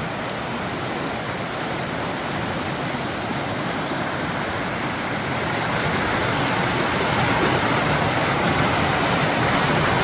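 Snowmelt-swollen mountain creek rushing over rocks: a loud, steady roar of white water, swelling slightly about halfway through.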